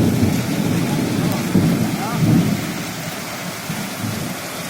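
Heavy rain falling, with deep low rumbles that swell and fade a few times in the first half and then ease off.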